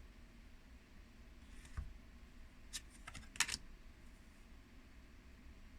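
A few light clicks and taps from a tarot deck being handled on a table. The loudest tap is a little past three seconds in.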